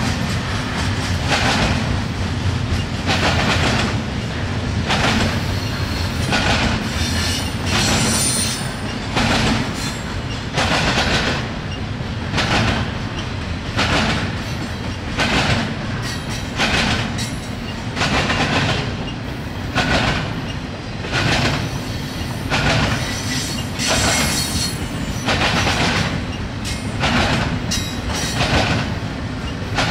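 Double-stack intermodal freight train's well cars rolling past: a steady low rumble with a rhythmic clatter each time a set of wheels goes by, and a brief high wheel squeal once or twice.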